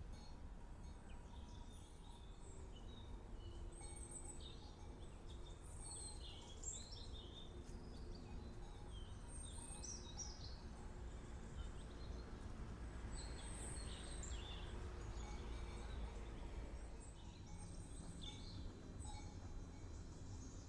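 Birds chirping and singing on and off in short clusters of calls, over a steady low outdoor rumble.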